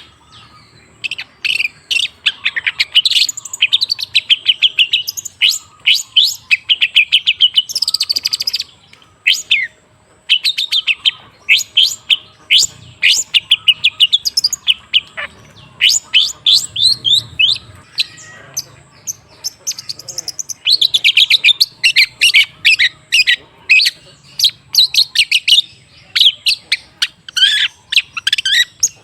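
Long-tailed shrike (cendet) singing a fast run of sharp chips and short whistled notes, in bursts broken by brief lulls about ten seconds in and again around eighteen to twenty seconds.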